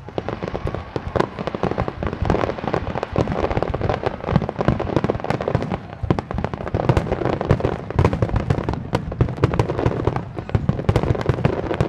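Fireworks display: many aerial shells bursting in a rapid, continuous barrage, booms and crackles overlapping without a break.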